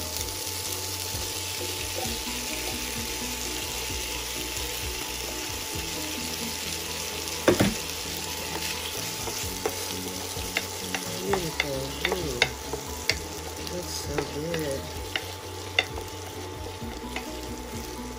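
Vegetables sizzling in a hot pan as kidney beans are added, then a wooden spoon stirring the mix, with scattered sharp knocks and clicks of the spoon against the pan from about seven seconds in.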